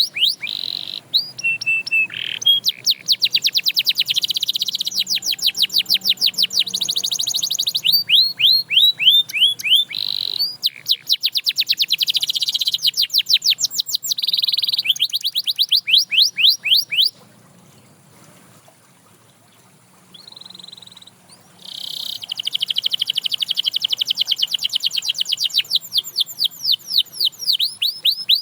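Domestic canary singing: long, fast trills of repeated sweeping notes, changing from one roll to the next. The song stops for a few seconds past the middle, apart from one short note, then resumes with a long rolling trill.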